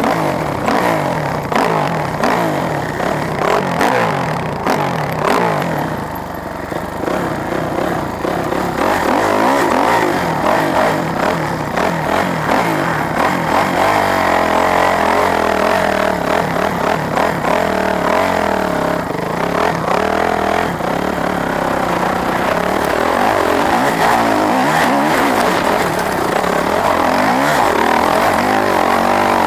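Dirt bike engine running under load while being ridden, its pitch rising and falling with the throttle, with rattling from the bike.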